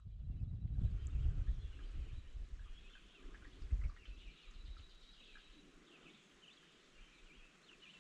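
Faint birdsong: many short chirps and trills, over a low rumble that dies away about halfway through.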